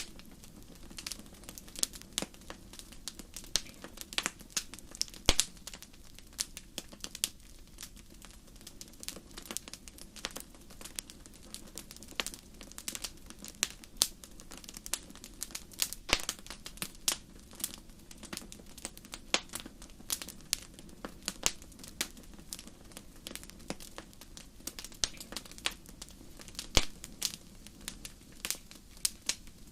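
Campfire crackling: irregular sharp pops and snaps, several a second, over a faint steady low rush.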